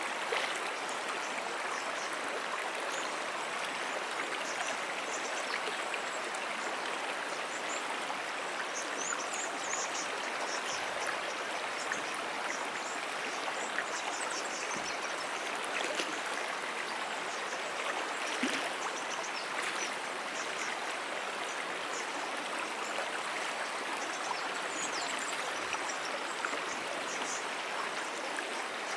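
Brook water flowing steadily, an even rushing and trickling with no breaks.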